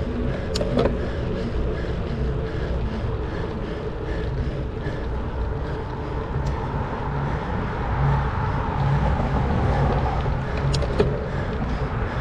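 Steady wind rush and rolling noise from riding a bicycle on a paved trail, with a few sharp ticks. The noise swells briefly around eight to ten seconds in.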